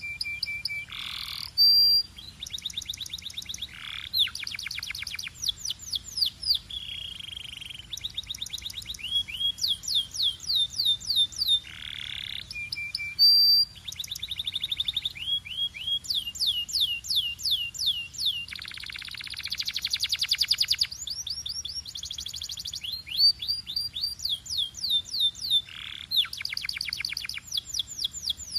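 Belgian canary singing a long, unbroken song of rapid trills and rolls. It strings together runs of quick repeated notes, some sliding down in pitch, with short pauses between phrases.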